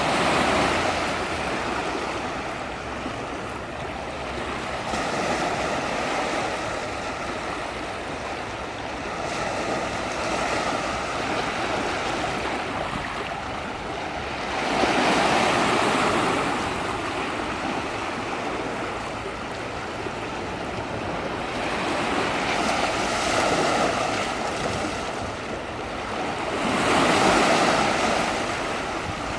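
Sea waves washing onto a shore, the surf swelling and fading every few seconds.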